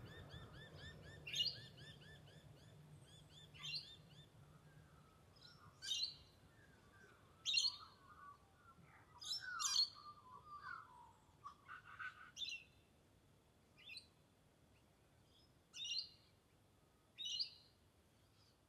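Birds chirping and calling, faint: short high chirps every second or two, with lower warbling calls mixed in during the first half.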